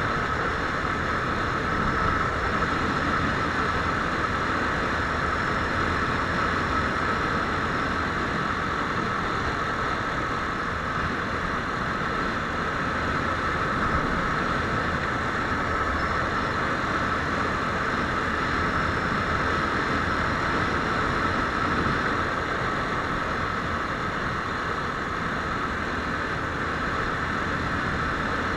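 Viper R2 motorcycle engine running at a steady, unchanging pitch.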